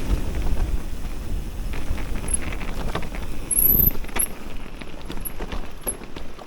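Electric mountain bike being ridden over a rough track: wind on the microphone and rattling from the bike, with scattered sharp clicks and a brief high chirp a little past the middle. The rumble eases off in the second half.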